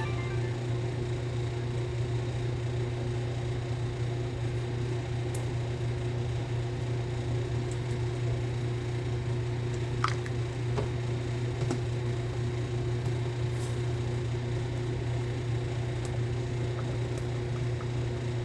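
Chicken-and-dumpling stew being stirred in a pot, with soft squishing and a few light spoon taps against the pot over a steady low appliance hum.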